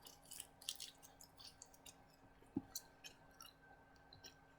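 Faint chewing with small wet mouth clicks, scattered and irregular, and one soft low knock about halfway through.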